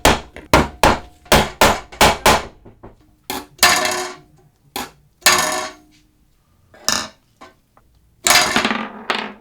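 Hammering: a quick run of about seven sharp blows, then three heavier strikes spaced a second or more apart, each ringing on briefly before fading.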